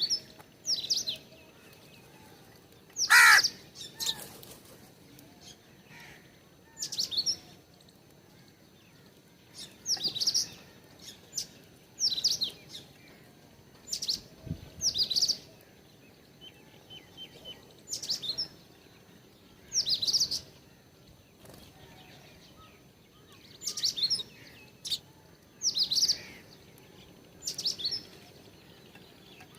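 Small birds chirping: short, high, falling chirps repeated every second or two, with one louder call about three seconds in that sweeps further down in pitch.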